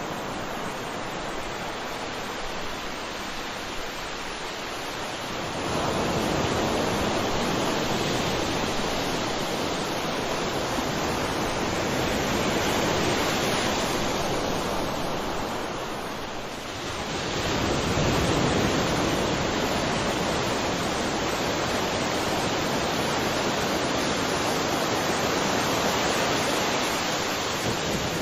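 Ocean waves breaking and washing on the shore, a steady surf roar that swells twice, about six seconds in and again past the middle.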